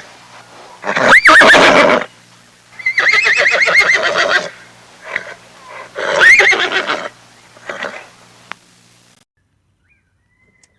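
A horse whinnying: three loud neighs with a quavering, wavering pitch, with a few short, weaker sounds between them.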